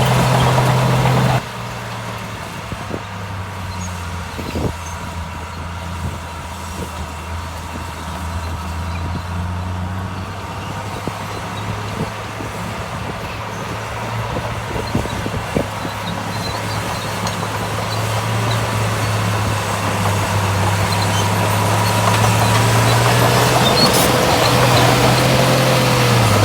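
Heavy diesel engine of earthmoving machinery running steadily. It drops abruptly to a quieter level about a second and a half in, with a few short knocks, then grows gradually louder again toward the end.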